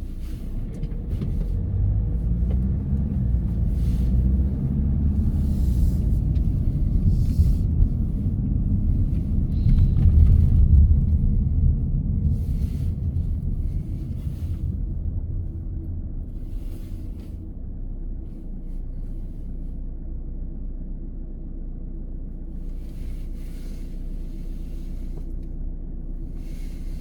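A car driving on the road: a steady low rumble of engine and road noise that grows louder around ten seconds in, then eases off to a quieter, steadier level.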